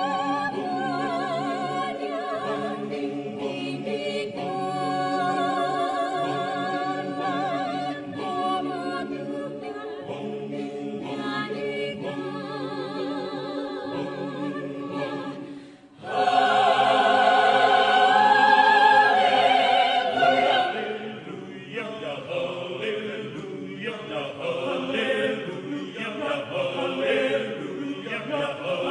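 Mixed adult choir singing in several parts. The singing breaks off briefly about halfway through and comes back louder.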